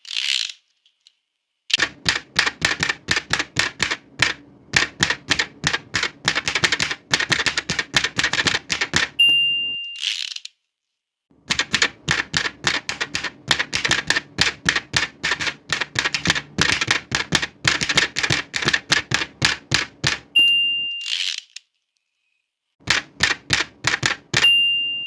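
Old manual typewriter typed in fast runs of key clacks. Between runs the margin bell dings and the carriage is swept back, twice, with another ding near the end.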